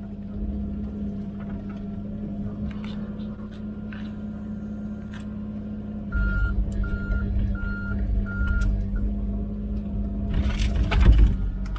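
Komatsu PC16 mini excavator's diesel engine running steadily, then working harder and louder about six seconds in. Four short, evenly spaced beeps of one pitch come just after the engine picks up. A loud burst of crackling noise comes near the end.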